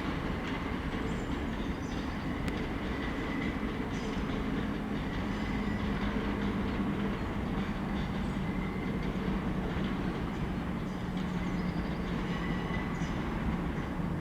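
Electric multiple-unit train running along the track, a steady rumble with a low hum.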